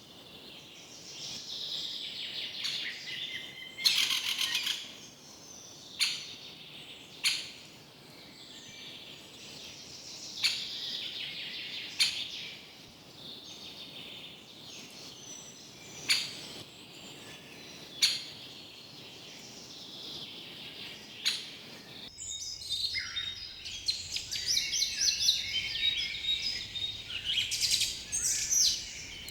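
Forest birds singing and chirping, with several sharp, loud calls standing out over the chorus. About 22 seconds in, the recording switches to a denser, busier chorus of chirps.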